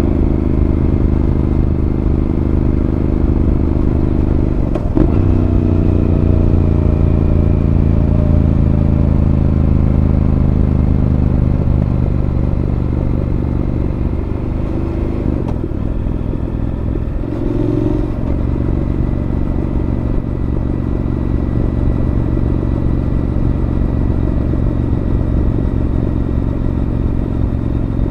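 Honda NC750X parallel-twin engine running through a Moriwaki aftermarket exhaust while riding. The engine note changes abruptly about five seconds in, then the revs ease slowly downward, and the note shifts again about two-thirds of the way through.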